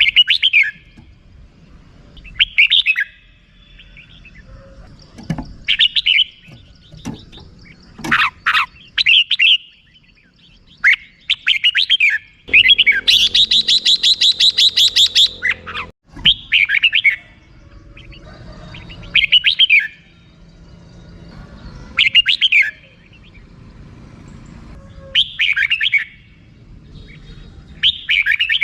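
Red-whiskered bulbul calling in short, bright phrases every two to three seconds, with a longer run of rapid repeated notes about halfway through.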